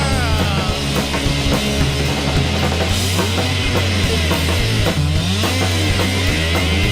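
Rock band playing an instrumental passage live, with no singing: electric guitar with gliding, sliding notes over drums and a steady bass line.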